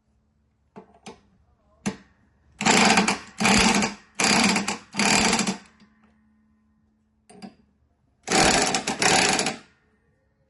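A handheld power tool run in short bursts: four quick bursts, then a longer pulsing one near the end, with a few sharp clicks before them.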